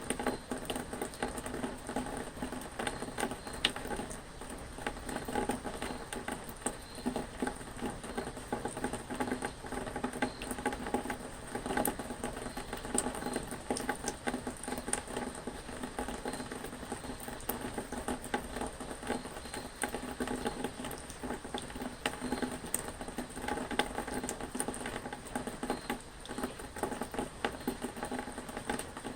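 Rain pattering steadily, a dense stream of small irregular drop ticks.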